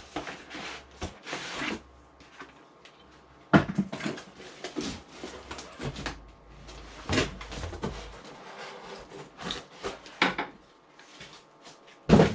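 Cardboard packing being pulled apart and handled: irregular rustling and scraping with short knocks, the sharpest about three and a half seconds in and another near the end.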